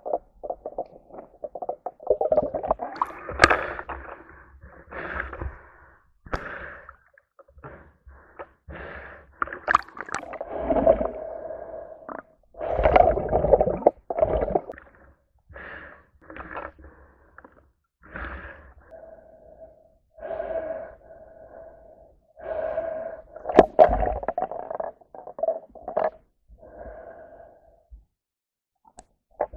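Sea water splashing and gurgling around a swimmer in irregular bursts of a second or two.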